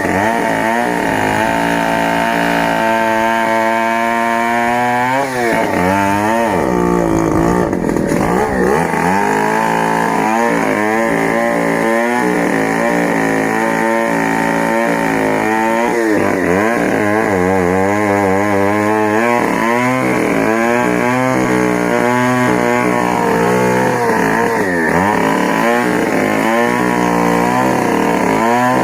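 Stihl MS 070 chainsaw, a big two-stroke saw, running under load through wood. Its engine pitch dips and climbs back again and again as the chain bites and frees up in the cut.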